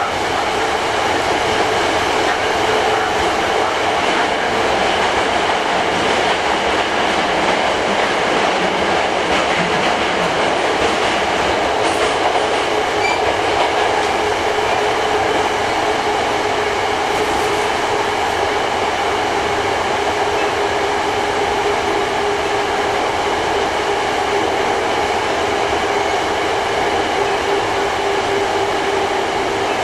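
Hankyu 8300 series electric train running through a tunnel, heard from inside the car: a steady rumble of wheels on the rails with a steady motor hum and whine over it.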